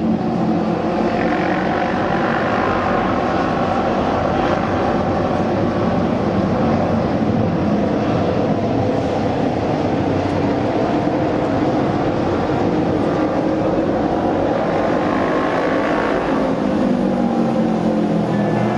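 Several Japanese auto race motorcycles running on the oval track, a dense engine sound that swells and bends in pitch as the bikes sweep past, most clearly about a second in and again near the end.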